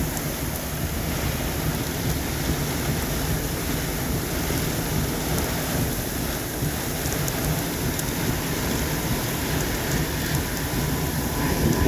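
Heavy rain and gusting wind of a severe thunderstorm, a steady rushing noise with a deep rumble.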